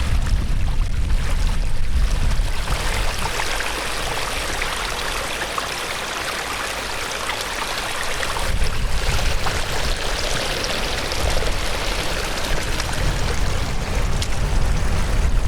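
A swollen, fast-flowing stream in heavy rain: a dense, steady rush of water, with a low rumble that swells and fades a few times.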